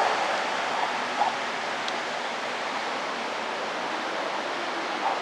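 Steady rushing noise with no clear pitch.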